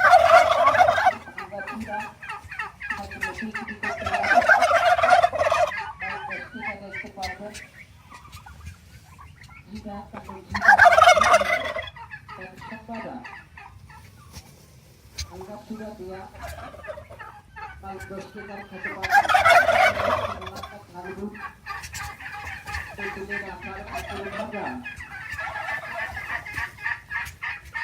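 Domestic turkeys gobbling: four loud, rattling gobbles several seconds apart, with softer turkey calls in between.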